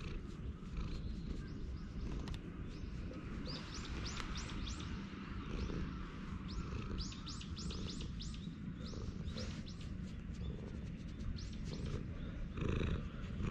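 Birds chirping in several quick runs of short downward-sweeping notes, over a cat's steady low purr close to the microphone. A short louder rustle comes near the end.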